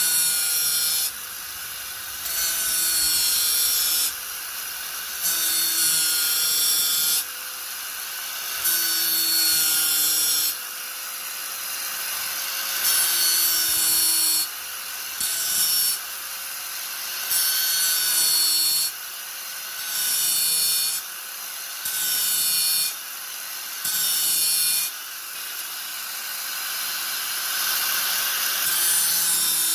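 Angle grinder running with a steady whine, its disc pressed into the work again and again in passes of a second or two, each pass adding a loud scraping hiss.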